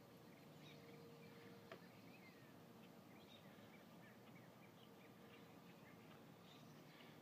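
Near silence with faint, scattered bird chirps and short whistled glides over a faint steady hum.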